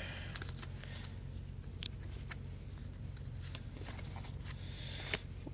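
Faint light clicks and ticks of trading cards being handled, with one sharper click a little under two seconds in, over a steady low hum.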